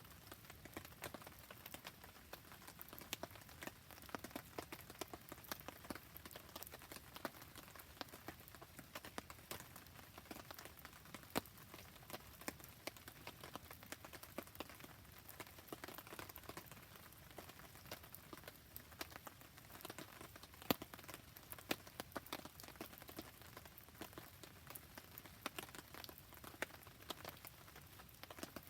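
Rain falling beside a crackling wood campfire: a soft steady hiss with many sharp, irregular ticks and pops.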